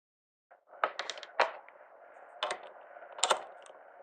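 A series of irregular sharp clicks and knocks, several close together and then single ones spaced about a second apart, over a faint steady hiss.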